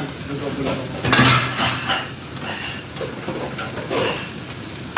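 Metal pots, pans and utensils clanking and clattering several times, with food sizzling in a pan underneath.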